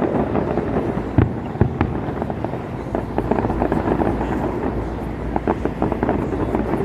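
Aerial fireworks bursting: a run of sharp bangs and crackles over a continuous rumble, with the loudest cracks about a second in and another cluster around five seconds.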